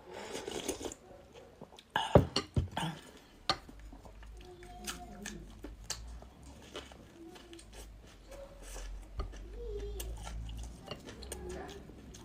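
Close-miked eating sounds: chewing and mouth noises, with a cluster of sharp clinks of dishes or cutlery about two seconds in, the loudest part, and scattered smaller clicks after.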